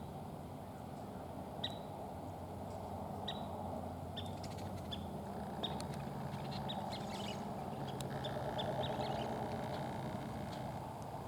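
Scissor-tailed flycatcher calling: short sharp chirps, spaced out at first, then coming faster in quick runs about halfway through and again near the end, the accelerating call the bird often gives just before take-off. A steady low background rumble runs underneath.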